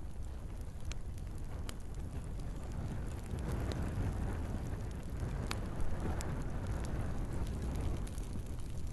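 Log fire crackling in a fireplace: a steady low rumble of flames with sharp pops scattered throughout, the flame noise swelling about halfway through.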